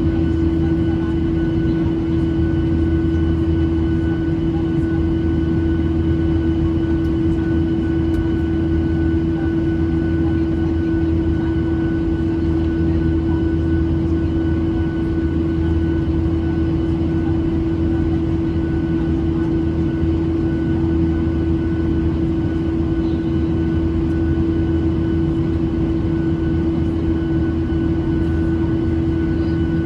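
Steady drone inside the cabin of a Boeing 737-800 with its CFM56-7B turbofan engines running: a strong steady hum with fainter high whines over a low rumble and rushing air, unchanging throughout.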